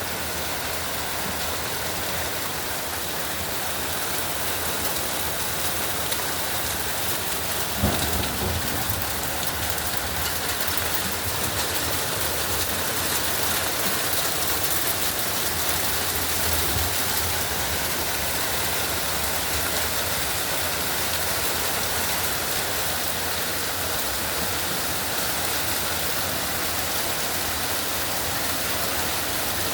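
Steady rainfall, an even hiss of rain coming down and hitting surfaces. A single brief thump sounds about eight seconds in.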